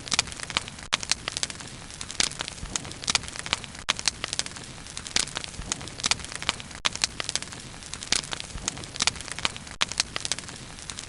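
Bonfire burning steadily with a continuous hiss and frequent sharp, irregular crackles and pops.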